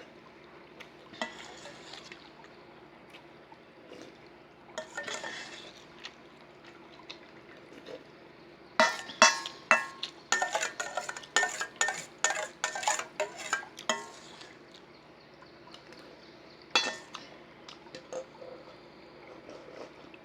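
A spoon clinking and scraping against a dish while someone eats cereal. There is a fast run of ringing clinks in the middle, with a few scattered single clinks before and after.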